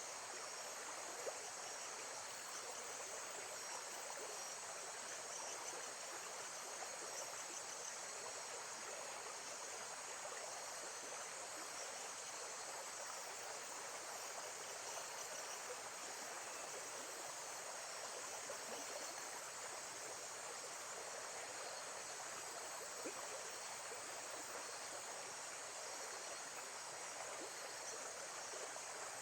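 Steady, gently rushing flow of water, like a stream or water running at a lake's edge, with a constant high-pitched chorus of insects over it.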